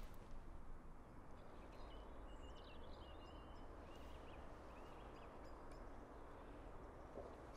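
Faint background rumble with a small bird chirping and warbling in short high phrases through the first half.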